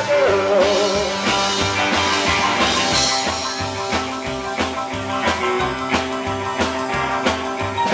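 Live rock and roll band playing an instrumental passage, with electric guitar over a steady drum-kit beat.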